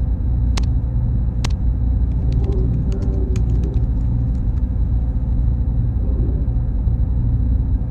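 Computer server room ambience: a loud, steady low hum of machines and cooling fans with a thin high-pitched whine over it. Two sharp clicks about a second apart come early, then a quick run of light clicks between about two and four and a half seconds in.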